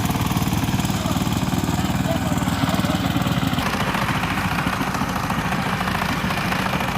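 Walk-behind power tiller's single-cylinder diesel engine running steadily with a fast, even chugging.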